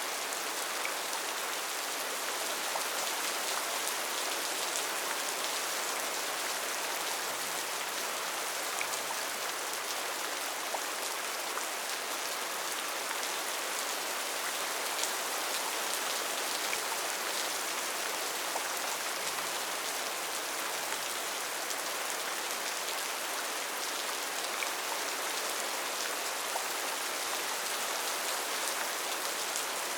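Steady heavy rain falling in a rainforest, an even hiss of rain with scattered drop ticks.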